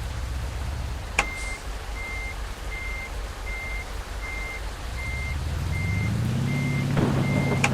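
Truck reversing alarm beeping at an even pace, about four beeps every three seconds, over a low engine hum that rises in pitch in the last few seconds. A sharp click comes as the beeping starts and another as it stops.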